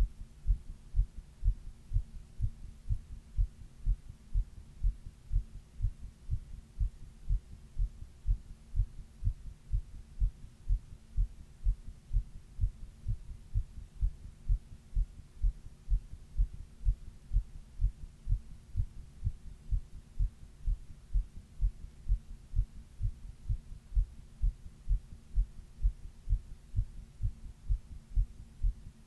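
A human heart beating in a steady, even rhythm, heard close up as a chest recording of the heart sounds, with a faint steady hum underneath. It was recorded while the person had a 102 °F fever.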